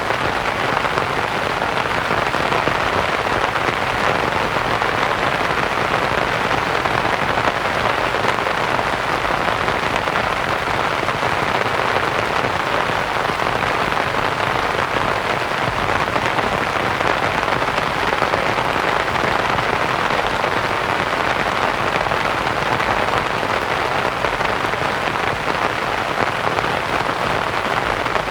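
Steady rain pattering on a canvas tent, blended with soft white noise, with no change in intensity.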